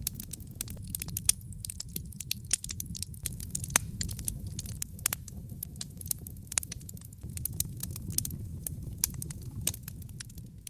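Wood fire burning in a fireplace: dense, irregular crackles and pops over a low, steady rumble.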